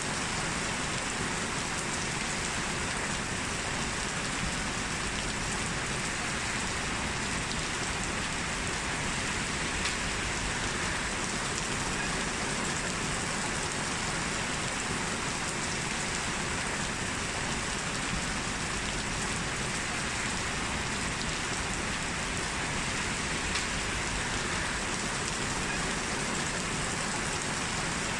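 Heavy rain falling steadily on hard surfaces, an even dense hiss with the odd louder drop tick.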